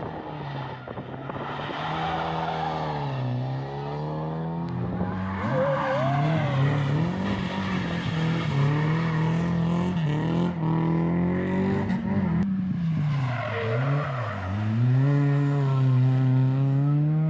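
Historic rally car engine on a special stage, revving up and falling back again and again through gear changes and lifts, growing louder toward the end as it comes closer. A brief tyre squeal about six seconds in.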